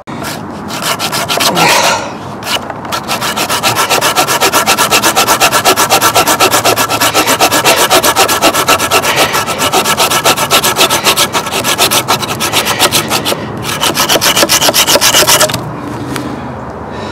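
Hand saw cutting through a wooden log in quick, steady back-and-forth strokes, about four or five a second, pausing briefly twice before stopping near the end.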